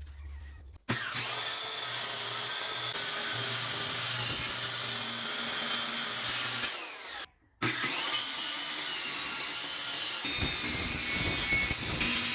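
Electric power saw cutting wood in two runs: the motor spins up about a second in, cuts steadily, winds down near the seventh second, stops briefly, then spins up again for a second cut.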